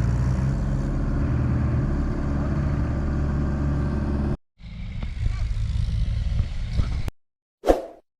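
Tractor diesel engine running hard under load during a mud recovery pull. The sound breaks off abruptly about four seconds in, returns, and stops about seven seconds in, followed by a single short, sharp sound near the end.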